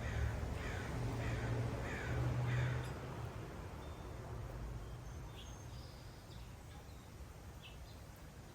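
A bird gives a series of four harsh downslurred calls in quick succession, with a few faint higher chirps later. A low rumble runs underneath, loudest in the first three seconds and then fading.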